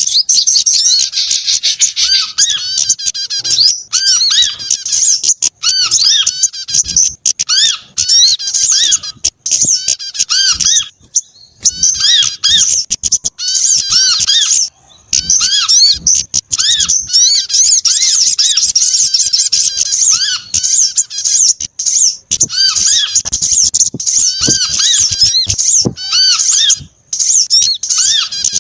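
Recorded calls of several small songbirds mixed together as a bird-trapping lure: rapid high chirps and trills overlap almost without pause, over a repeated short arched note lower down. The calling thins out briefly a little before halfway.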